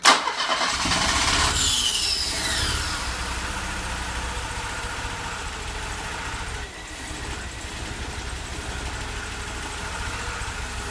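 Mercedes-Benz M102 2.3-litre four-cylinder petrol engine catching and starting: the revs flare up, fall away over a couple of seconds, then settle into steady running with a brief dip about seven seconds in. The mechanic suspects it is not firing on one cylinder.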